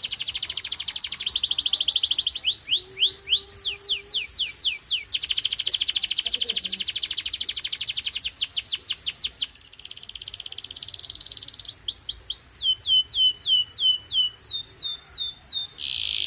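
Domestic canary singing: fast rolling trills alternate with slower phrases of high whistled notes that each sweep downward, about three a second. There is a softer trill about ten seconds in.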